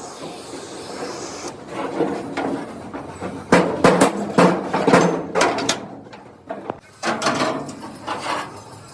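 Irregular hammer blows and clanks on metal: a run of sharp knocks, bunched in the middle and again near the end, typical of truck body panel repair work.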